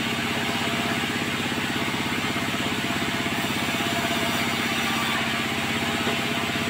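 A sawmill's engine running steadily at an even speed, with a fast, regular pulsing beat.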